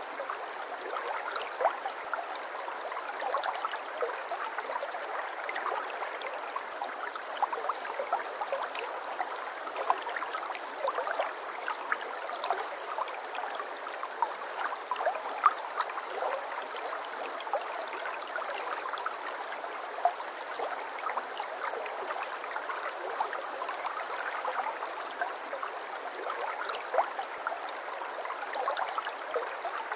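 Babbling brook: a steady stream of running water, flecked throughout with many small splashes and gurgles.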